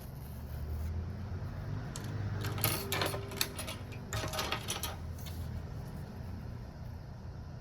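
Light clicks and scraping from small tools and parts being handled during a phone repair, in two short clusters about two and four seconds in, over a steady low hum.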